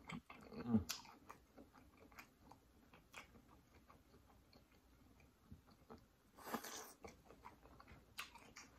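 Close-up chewing of boiled seafood, with soft wet mouth clicks and smacks scattered throughout, and a short louder noise about six and a half seconds in.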